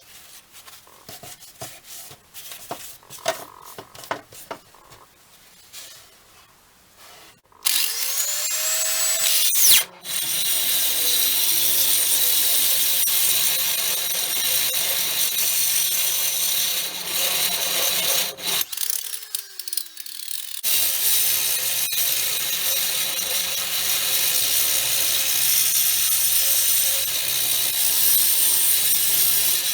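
A few light taps and scrapes, then a handheld electric power tool spins up and runs loudly under load, working on the rusty monkey wrench. It cuts out briefly, later winds down with a falling whine, and starts up again.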